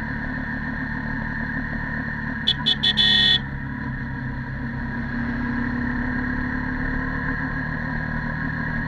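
Yamaha YZF-R15 V2.0's stock single-cylinder four-stroke engine running at a steady cruise while riding. About two and a half seconds in, a vehicle horn gives three quick beeps and then one slightly longer honk.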